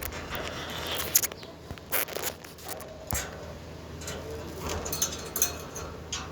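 Irregular sharp clicks and scratching taps from a pet parrot pecking and nibbling as it eats and plays.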